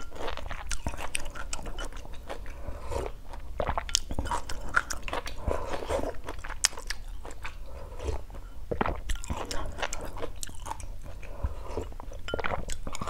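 Close-miked chewing and biting of stir-fried lemongrass-chili chicken, with wet mouth clicks and small crunches coming irregularly. Near the end come sips of sour soup broth from a small glass bowl.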